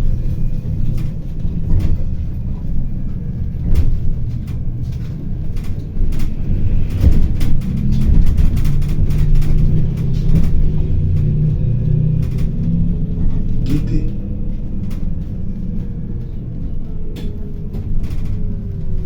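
Inside a moving city bus: steady low drivetrain and road rumble with frequent small rattles and clicks, and a faint whine that drops in pitch near the end.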